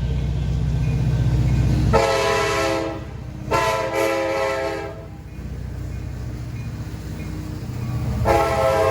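A Nathan K5LA five-chime horn on a CSX SD70MAC diesel locomotive sounds three blasts: a short one about two seconds in, a longer one right after, and a third starting near the end. Before the first blast, the passing train's heavy low rumble is the loudest sound.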